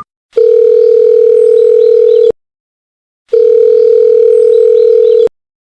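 Telephone call tone: two long, steady, mid-pitched beeps of about two seconds each, a second apart, the ringing heard while a call waits to be answered.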